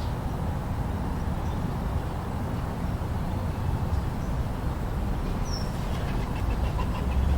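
Steady low rumble of storm wind in a snowstorm ambience, with a single faint high bird chirp about five and a half seconds in.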